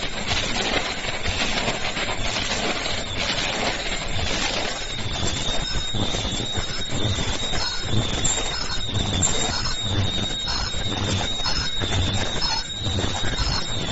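High-speed KF94 2D mask production machine running, its servo-driven stations cycling in a steady rhythm of clatter and knocks about once a second. A steady high whine joins the machine noise about five seconds in.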